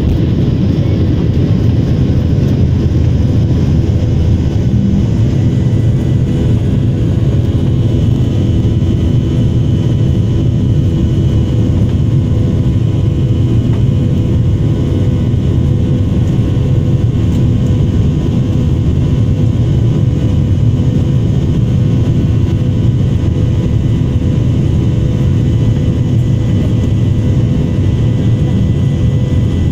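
Airliner cabin noise: the jet engines and airflow make a loud, steady low drone with a few faint steady tones over it, heard from inside the passenger cabin.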